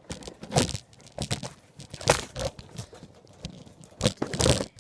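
Handling noise on a phone's microphone as the phone is fumbled and dropped: irregular crunching knocks and scrapes, the loudest cluster near the end.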